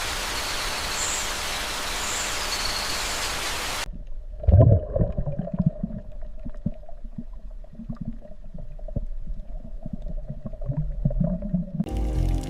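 A steady rushing hiss that cuts off suddenly about four seconds in. It gives way to low underwater rumbles over a steady hum, with one loud thud just after the change. Music begins near the end.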